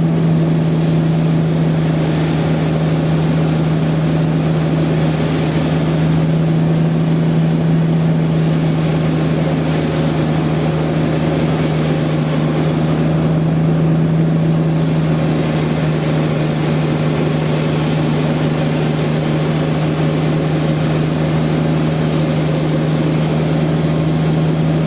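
Sawmill machinery running steadily: a constant loud drone with a strong, unchanging hum.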